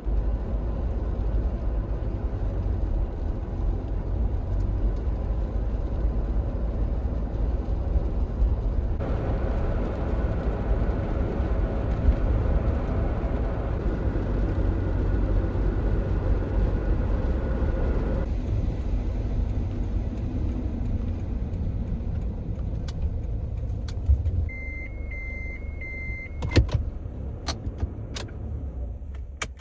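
Steady road and engine rumble heard from inside a moving car. Near the end the rumble drops, a high electronic beep sounds several times in quick succession, and a few sharp clicks follow.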